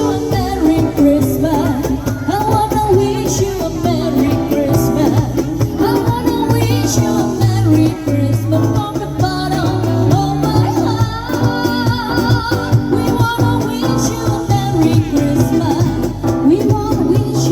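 A young female singer singing a song over instrumental backing music, amplified through a sound system.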